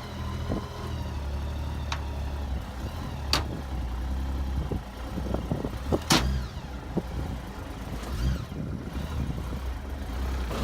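A vehicle engine runs low and steady, with a few sharp clunks; the loudest clunk comes about six seconds in.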